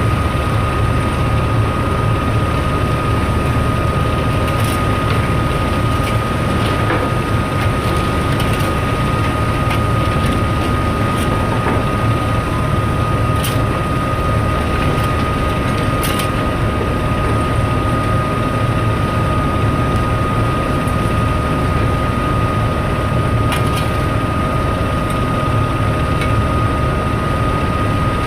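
Heavy machinery running steadily during ship unloading, with a low rumble and a constant high whine, and a few faint clicks.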